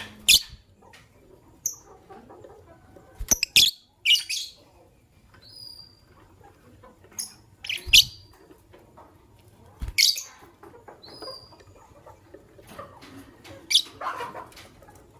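Fischer's lovebirds chirping: short, shrill, high-pitched calls every second or two, about six of them loud, with a few thin, higher notes between them. Two low knocks come with the calls about eight and ten seconds in.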